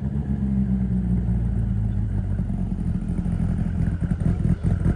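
A car engine running with a steady, deep exhaust note; from about four seconds in the sound begins to pulse rapidly.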